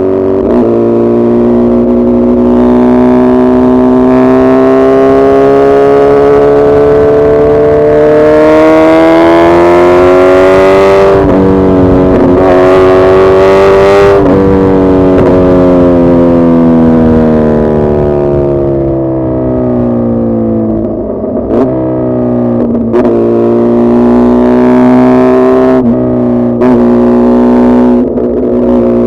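Suzuki Hayabusa's inline-four engine running loud, its pitch climbing slowly for about ten seconds, changing a couple of times in the middle, then falling away. Several short sharp breaks in the sound come in the last third as the engine settles to a steadier pitch.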